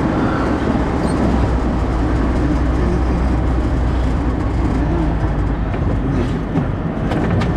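Steady cabin noise of a moving 2004 Ford Focus: engine and tyre noise with a low rumble.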